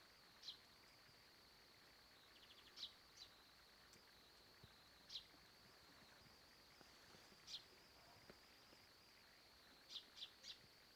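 Faint birdsong: short, high chirps every couple of seconds, a brief trill a little over two seconds in and three quick chirps near the end, over a steady high-pitched drone.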